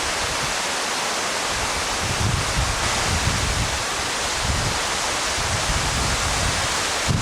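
Steady rushing of a tall mountain waterfall, with irregular low buffeting of wind on the microphone from about two seconds in.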